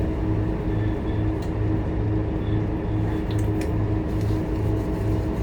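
Scania K230UB bus engine running steadily, a continuous drone with a low throb pulsing a few times a second, heard from inside the bus.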